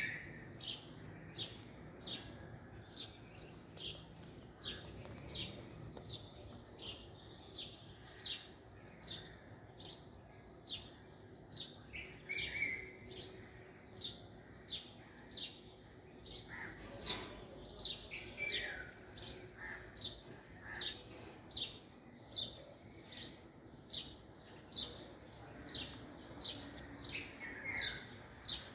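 A small bird chirping over and over, sharp high chirps about twice a second, with a few longer falling phrases mixed in.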